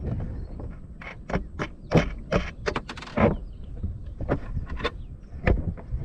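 A quick run of sharp knocks and clicks over a low rumble, with one more strong knock near the end.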